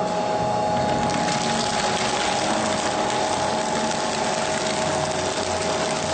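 Scrap-processing machinery running steadily: a constant mechanical drone with a steady two-tone whine on top and no distinct impacts.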